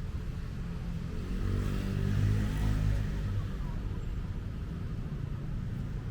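Street traffic rumble, with a motor vehicle's engine passing close by, swelling about a second and a half in and fading away a couple of seconds later.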